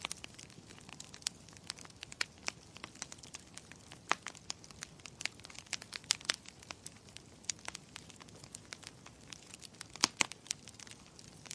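Wood fire in a fireplace crackling: irregular sharp pops and snaps over a faint hiss, with a couple of louder pops about ten seconds in.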